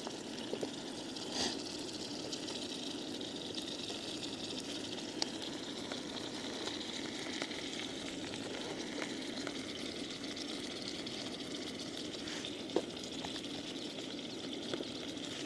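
Steak, zucchini chunks and onions frying in olive oil in a pan: a steady sizzle, with a few faint clicks now and then.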